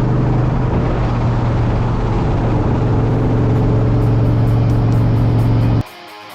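A vehicle's engine running at a steady, unchanging speed, a loud constant low drone with road noise. It cuts off abruptly near the end.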